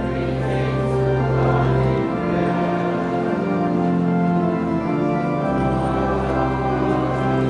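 Organ music: slow, sustained chords held for a few seconds each, with the bass note changing about every three seconds, as during communion in a church service.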